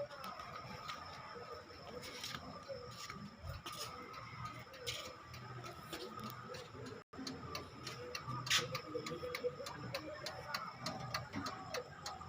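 Turn-signal flasher relay on a Farmtrac tractor's newly wired indicator circuit, ticking in a steady rhythm. The ticks are most even in the second half.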